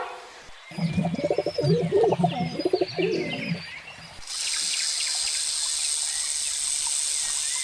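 Birds cooing in low, rhythmic bursts for about three seconds, with faint high chirps of small birds. Then comes a steady high-pitched hiss that lasts about four seconds and stops abruptly.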